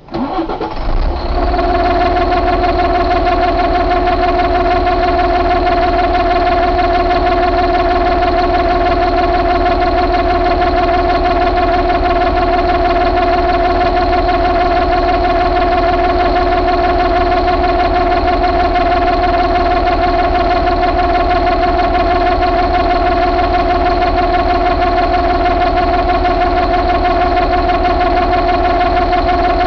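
Mercedes MBE926 inline-six diesel engine idling steadily, with a constant whine riding over the engine note.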